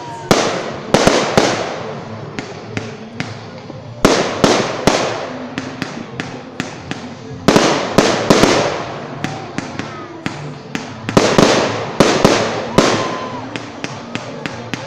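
Fireworks salute: aerial shells bursting in repeated volleys, each a group of sharp bangs followed by a crackling tail that dies away.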